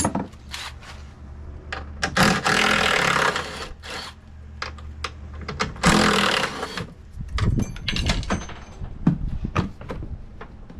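Workshop tool noise on a jet ski: scattered clicks and knocks, with two loud stretches of hissing, rasping mechanical noise. The first starts about two seconds in and lasts nearly two seconds; the second comes about six seconds in and lasts about a second.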